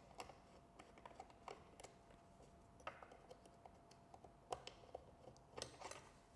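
Faint, irregular small clicks and taps of a tiny plastic camera being handled and detached from its mounting bracket, over a faint steady hum.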